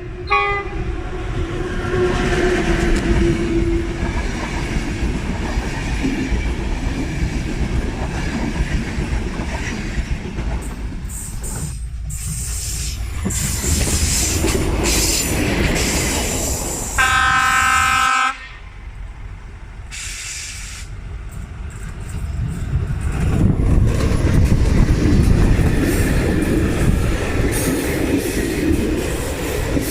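A train passing on the main line, its wheels rumbling and clattering over the rails. The horn sounds in short notes at the start and again in one blast of about a second, about 17 seconds in.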